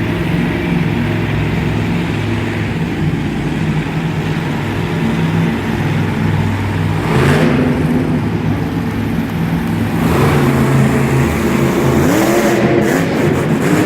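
Monster truck engine running steadily, then revving about halfway through and again near the end.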